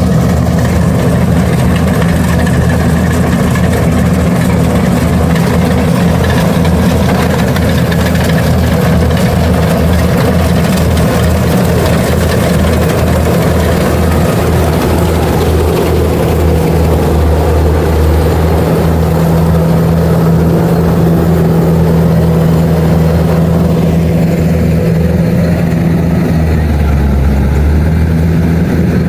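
Kubota DC-70 Plus combine harvester's diesel engine running steadily along with its machinery, a loud continuous drone that changes slightly near the end.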